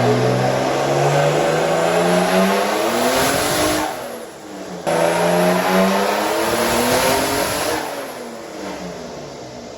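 Turbocharged BMW M50 straight-six making full-throttle pulls on a chassis dyno, aimed at about 5,000 rpm. The revs climb steadily, drop off abruptly about four seconds in, then a second pull starts suddenly, climbs again and falls away near the end.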